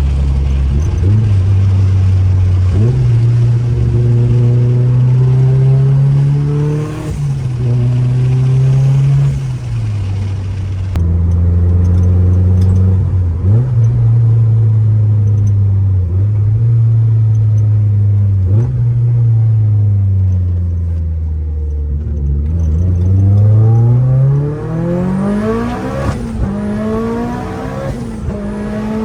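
Mitsubishi Lancer Evolution VIII's turbocharged 4G63 four-cylinder engine under way, its pitch climbing under acceleration and dropping several times at the gear changes. Its pitch falls steadily for a couple of seconds about two-thirds through, then it revs up hard near the end.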